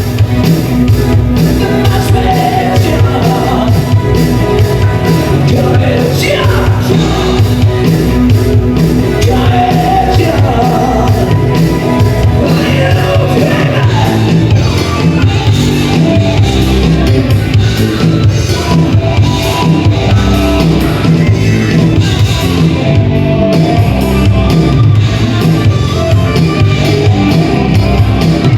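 A live band playing a loud rock song with a drum kit, with some singing and shouting over the instruments.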